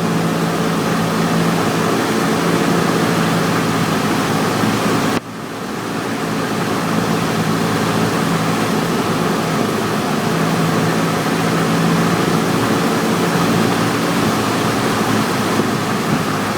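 Cessna 172's piston engine and propeller droning steadily, heard inside the cabin over a loud rush of airflow. About five seconds in the level drops abruptly and then builds back up over the next few seconds.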